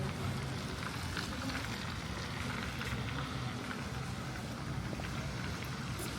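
Steady outdoor street ambience: an even wash of noise under a low hum, like a passing or idling vehicle, that fades over the first few seconds, with a few faint clicks.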